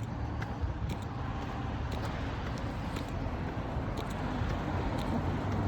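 Steady low rumble of road traffic, with faint light ticks.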